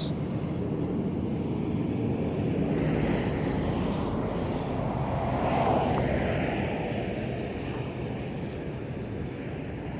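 A vehicle passing by, heard as a steady rushing hum that swells to its loudest about halfway through and then fades.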